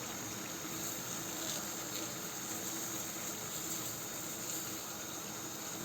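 Paella of rice, broth and seafood simmering in its pan, a steady, even hiss.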